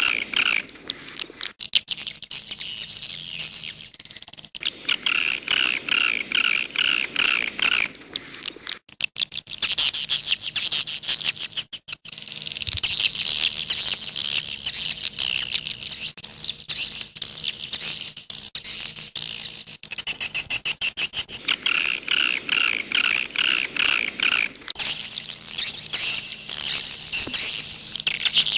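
Swiftlet (walet) calls: phrases of rapid, repeated chirps alternating with runs of fast dry clicks, over a faint steady hum.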